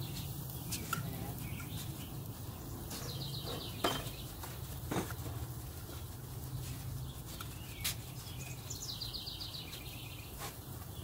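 A small bird's short trilling call, heard twice, over a steady low rumble. A few sharp knocks, the loudest sounds, fall in between.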